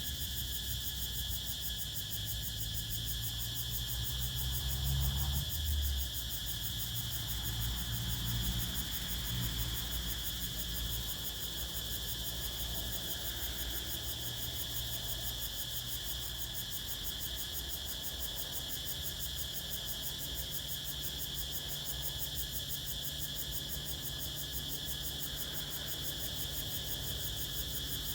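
Crickets chirring steadily in a high continuous trill, a forest evening insect chorus. Under it runs a low wind rumble that swells about four to six seconds in and again a little later.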